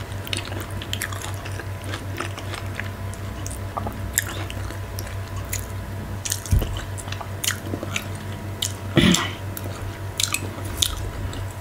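Close-miked eating sounds of fufu with okra stew: wet chewing, lip smacks and sticky mouth clicks, with a louder smack about nine seconds in. A steady low electrical hum runs underneath.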